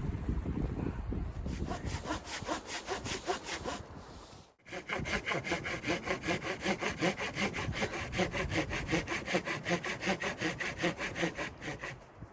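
Hand saw cutting through wood in quick, even back-and-forth strokes, about three a second, starting after a second or so of wind noise. There is a brief break partway through, then the sawing carries on.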